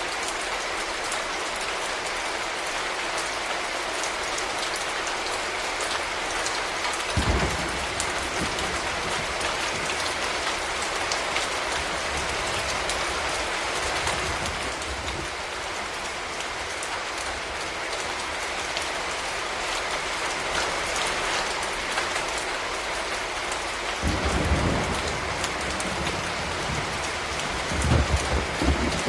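Steady rain falling, an even hiss of drops. Brief low thumps or rumbles come through about 7 seconds in and again near the end.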